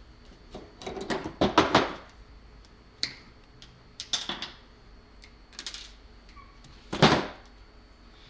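Small hand tools and wires being handled: scattered sharp clicks and rattles in short clusters, the loudest about seven seconds in.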